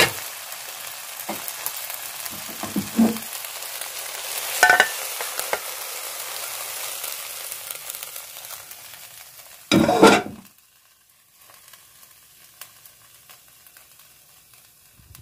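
Instant ramen noodles and sliced onions sizzling in oil in a hot wok, with a few light scrapes and knocks of the utensil as they are stir-fried. Just under ten seconds in comes a brief loud scrape as the food is slid out of the wok onto a plate, and the sizzling cuts off.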